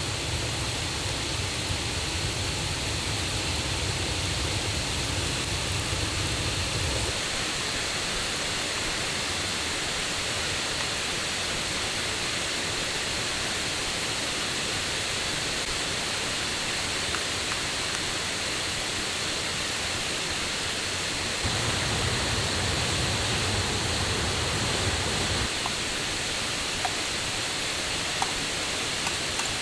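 Steady rush of a mountain river and waterfall running high and loud after the previous day's rain. A low rumble rises under it for about the first seven seconds and again for a few seconds later.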